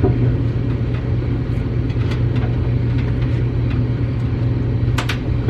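Steady low machine hum throughout, with faint scattered clicks and a couple of sharp knocks near the end.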